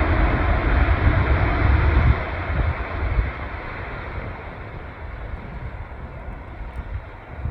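Jet aircraft engine noise, a steady rush that slowly fades as the plane moves away, with wind buffeting the microphone in the first two seconds.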